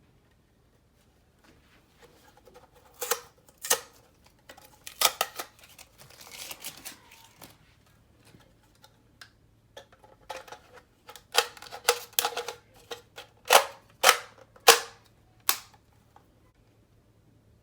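Sharp clicks and knocks of hard plastic airsoft magazine parts being handled and fitted together, in two clusters several seconds apart, with a brief rustling scrape between them.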